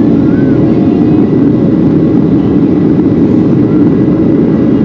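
Steady roar of a Boeing 737 jet airliner's cabin noise during the climb, with a faint steady high hum running through it.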